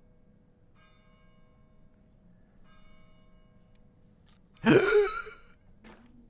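Faint, brief bell-like tones twice, then a single loud, breathy vocal sound with a falling pitch, like a cough or throat-clearing exclamation, about four and a half seconds in.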